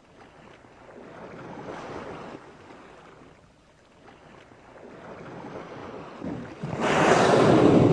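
Wind buffeting the microphone over open sea, with waves washing, swelling and fading, then a much louder rush of wind and water near the end.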